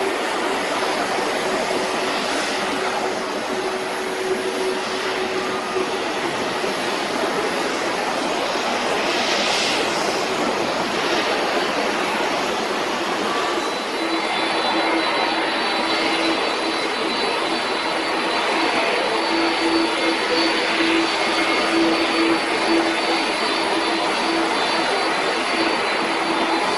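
Jet airliner engines running with a steady, dense rush and a faint steady tone in it; the tone drops slightly lower partway through.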